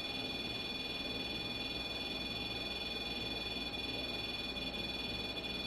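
REM pod EMF detector sounding its alarm: a steady high electronic tone, set off by a field it detects.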